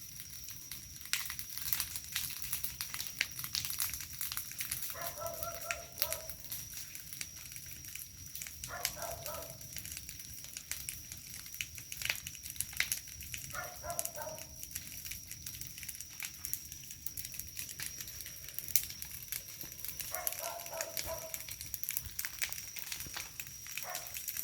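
A wood bonfire crackling, with irregular pops and snaps throughout. An animal gives about five short calls, roughly every four to five seconds.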